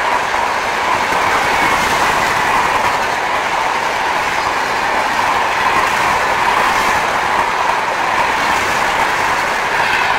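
Passenger coaches of an Indian Railways express train running past at speed: a loud, steady rush of wheels on rail.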